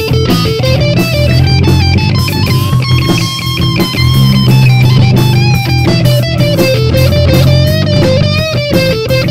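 A rock band playing live: an electric guitar carries a melodic lead line with held notes over bass guitar and drums.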